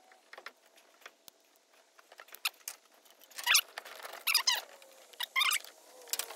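A few faint clicks of hand tools and wires being handled, then a bird chirping in short, high calls about a second apart, getting louder near the end.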